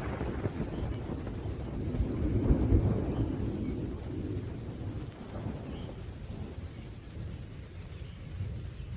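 Thunder rumbling low and rolling, swelling about two seconds in and then slowly fading, over steady rain.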